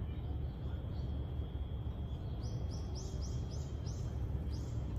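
Steady low outdoor rumble with a small bird chirping. There are a few short high chirps early on, then a quick run of them at about three to four a second in the second half.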